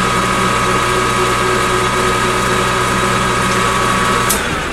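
Metal lathe running steadily with a held whine during a knurling pass on aluminium rod, then switched off with a click about four seconds in, its hum falling away.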